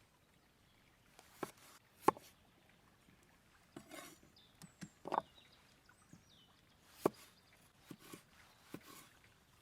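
Irregular knocks and clicks of outdoor food preparation on a wooden board, with sharper knocks about two, five and seven seconds in.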